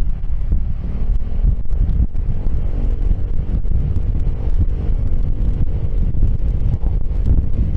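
Wind buffeting the microphone of a Piaggio X10 scooter rider at speed, with the scooter's engine running steadily underneath as a faint even hum.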